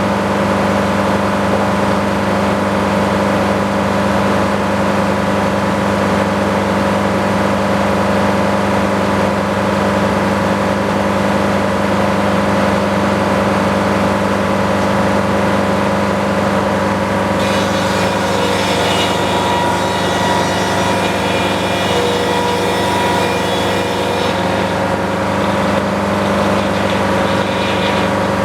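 Sawmill's engine running steadily. From a little past halfway a higher, harsher sound joins for about seven seconds as the saw cuts through the log, then drops away near the end.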